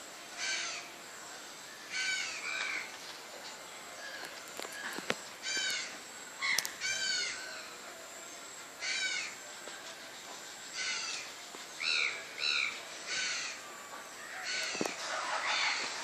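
Birds calling: about a dozen short, repeated calls, some coming in quick pairs.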